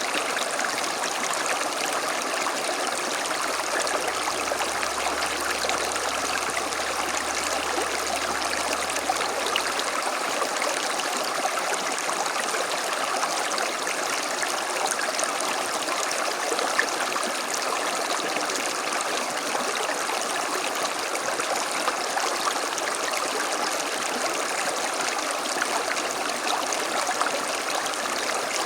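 A small creek flowing steadily over stones, a continuous even rushing and trickling of water.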